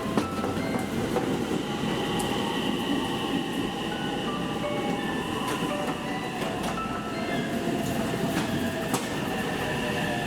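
A JR West 227-series electric train pulling into the platform, with a steady rumble of wheels on rail, a few clicks over rail joints and a motor whine that slowly falls in pitch as it brakes.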